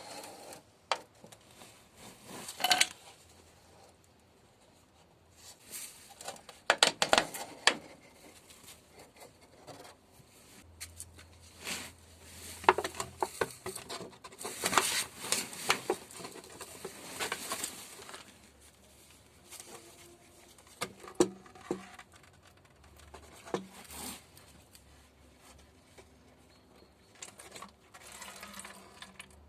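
Irregular clicks, taps and scraping rustles of hands and tools working at the engine's oil filter to remove it, with a busier stretch of handling about halfway through.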